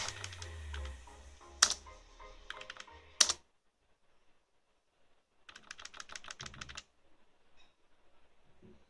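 Computer keyboard being typed on: two sharp single clicks in the first few seconds, then a quick run of keystrokes lasting just over a second past the middle.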